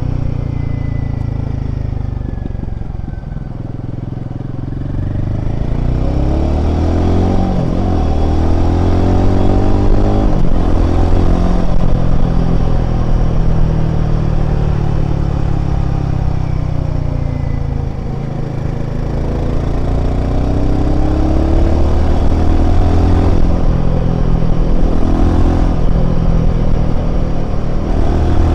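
Royal Enfield Himalayan 450's single-cylinder engine running on the move, its pitch climbing and falling as it accelerates and eases off. It drops back about three seconds in and again near eighteen seconds, then climbs again.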